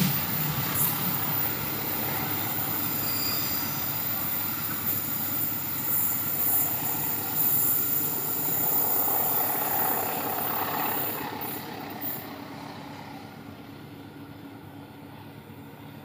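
Passenger train's coaches running away along the track, with wheel squeal as the rear coach rounds the curve; the sound fades off about twelve seconds in.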